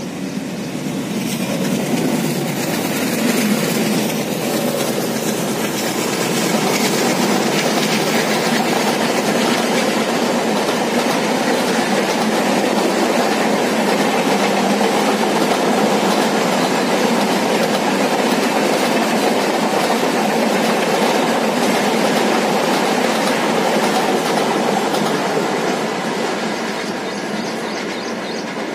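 Indian Railways express train passing at speed: a long, steady rush of coaches with wheels clattering over the rail joints. It builds over the first couple of seconds and eases off near the end.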